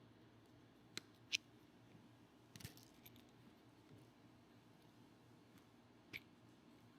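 A few faint, sharp snips and clicks from side cutters cutting into the black plastic piece of a motorcycle clutch cable adjuster, spread out over several seconds: two close together about a second in, one near the middle and one near the end.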